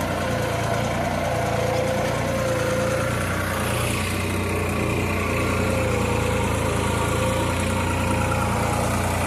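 New Holland 3600-2 tractor's three-cylinder diesel engine running steadily under load while pulling a reversible plough. It holds its RPM without bogging down.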